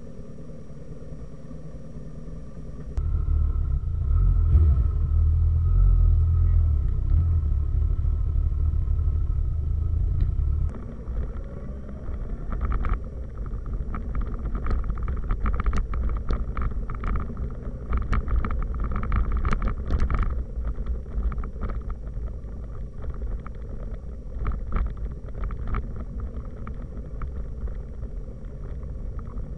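Motorcycle running at road speed, its low engine rumble mixed with wind and road noise. The sound changes abruptly twice, a few seconds in and again about a third of the way through, and then carries frequent short crackles of wind on the microphone.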